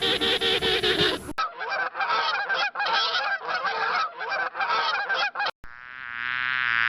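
Domestic fowl calling in rapid, repeated short calls, with abrupt cuts between clips; about a second before the end a different, steady droning call begins.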